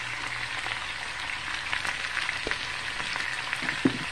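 Sliced potatoes and onions frying in oil in a cast iron skillet: a steady sizzle with small crackling pops, and a light knock near the end.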